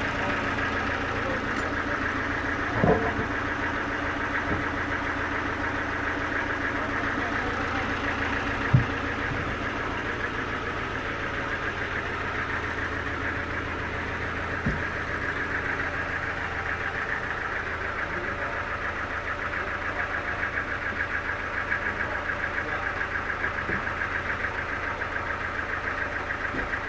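Sawmill machinery running steadily with an engine-like drone. Two sharp knocks come a few seconds apart in the first third.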